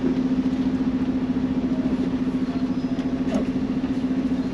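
Semi truck's diesel engine idling with a steady, even hum.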